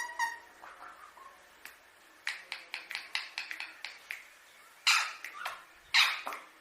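Indian ringneck parrot vocalizing: a short pitched call, then a run of sharp clicks at about four a second, then two loud, harsh, raspy calls near the end.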